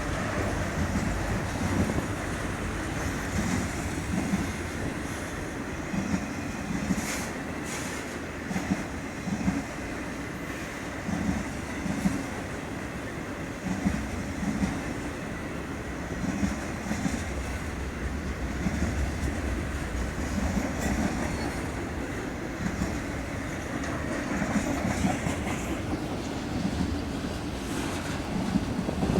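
A train's cars rolling past, their wheels clicking over the rail joints in a steady rhythm about once a second over a continuous rumble.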